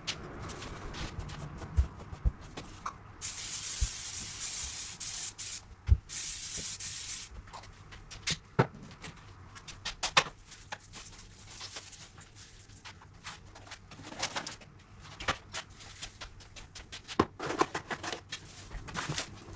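A cleaning spray hissing twice, the first for about two seconds a few seconds in and the second shorter right after it, among scattered knocks and clicks of things being handled.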